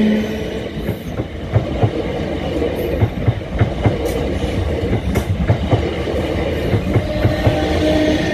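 South Western Railway Class 455 electric multiple unit passing close by at speed, its wheels clattering over the rail joints in a steady rhythm of sharp clicks, often in pairs, over a continuous rolling rumble.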